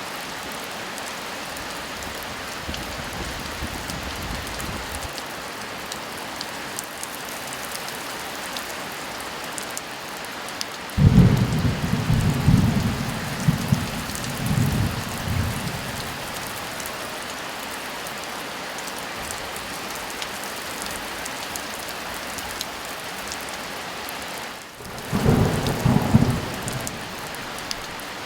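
Steady heavy rain with two rolls of thunder. The first breaks in suddenly about a third of the way through and rumbles for several seconds; a second, shorter one comes near the end.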